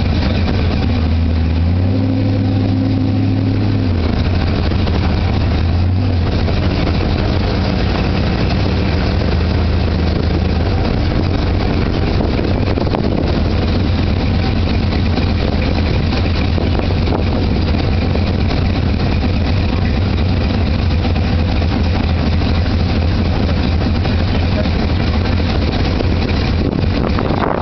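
A car engine running with a steady deep hum as the car cruises slowly, heard from the car itself; the engine note rises briefly about two seconds in, then settles.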